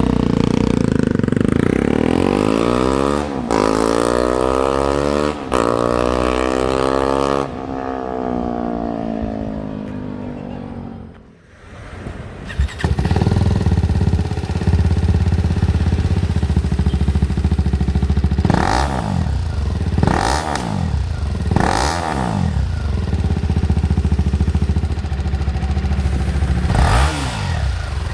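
BMW G310GS single-cylinder motorcycle engine through an aftermarket performance exhaust. It revs up several times with short breaks between the climbs, then fades out and drops away. From about halfway it idles steadily, with about five quick throttle blips that rise and fall.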